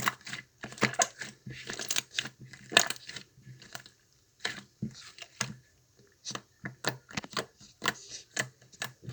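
An irregular series of sharp clicks and light knocks, some in quick crackly clusters, with a pause of about a second near the middle.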